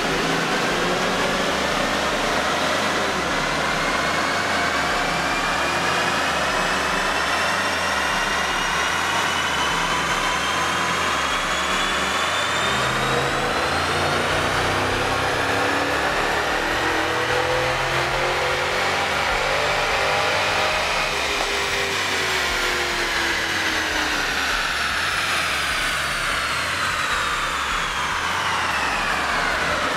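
2010 Chevrolet Camaro's L99 6.2-litre V8 running a pull on a chassis dyno: engine and rollers rise steadily in pitch for about twenty seconds, then fall away as the car coasts down.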